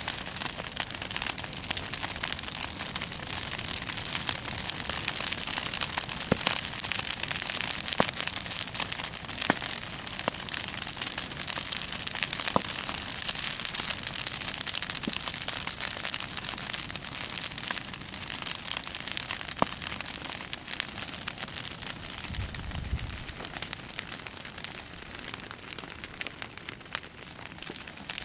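Bonfire crackling and hissing: a dense run of small pops and snaps over a steady high hiss. A brief low rumble comes about twenty-two seconds in.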